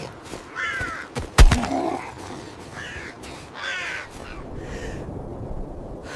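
Crow cawing, three or four short harsh calls, with a single loud thump about a second and a half in.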